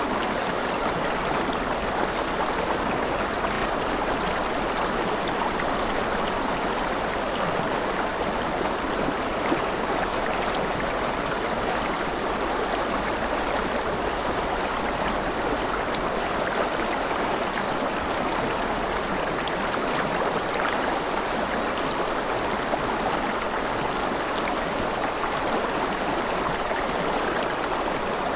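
River water flowing and splashing close by in a steady rush, with small gurgles and ticks of moving water.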